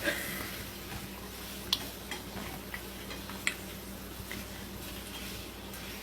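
Faint, scattered sharp clicks and taps, a few seconds apart, over a low steady hum.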